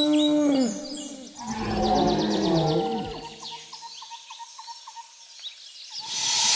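A low animal bellow, dipping and rising in pitch for about a second and a half, over repeated rapid bird chirps. A held musical tone fades out just before it, and a loud rush of noise starts near the end.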